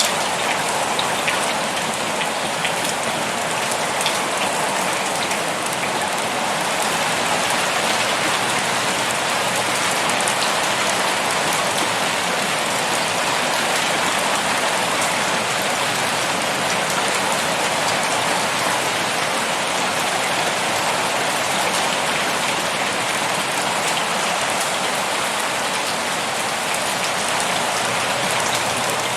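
Heavy rain pouring steadily, an even hiss of rain with many small drop ticks on surfaces.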